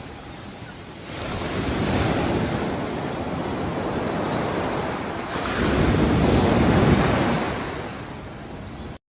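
Ocean waves breaking and washing in: one surge builds about a second in, and a second, louder one swells in the middle and then recedes. A brief dropout to silence comes right at the end.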